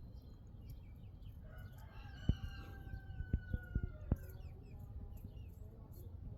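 Baby chicks peeping and chirping, with one longer call that slides slightly down in pitch. Several sharp taps come between about two and four seconds in.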